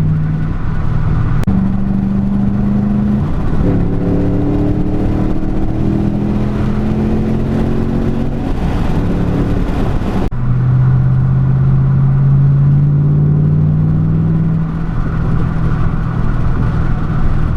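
Ford Mustang's engine heard from inside the moving car. Its pitch jumps up and down a few times and climbs slowly as the car accelerates. About ten seconds in the sound breaks off abruptly, then the engine holds a steady lower note.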